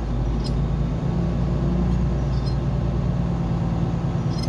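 Car engine and road noise heard from inside the cabin: a steady low hum with an even engine tone.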